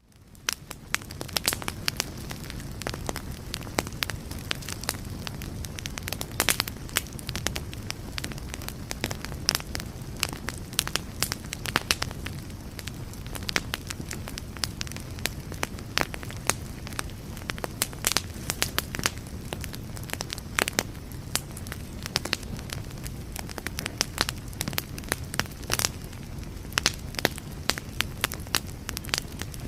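Wood fire in a fireplace crackling, with frequent irregular sharp pops over a steady low rumble of the flames, fading in over the first second.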